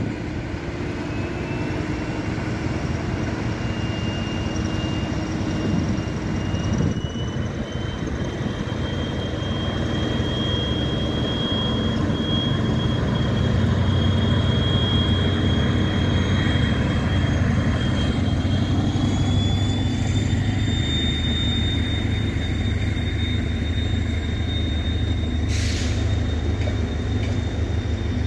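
Diesel locomotive slowly hauling a train of passenger coaches past, its engine rumbling loudest as the locomotive goes by. A thin steady high whine runs over it, stepping up in pitch twice, and there is one short sharp noise near the end.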